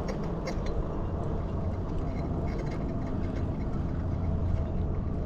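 Steady low wind rumble on the microphone of a moving bicycle, with a few faint light clicks scattered through it.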